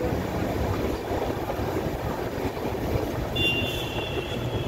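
Moving train heard from inside the coach by an open window: a steady rumble of wheels on rail. About three and a half seconds in, a brief high steady squeal rises above it for about a second.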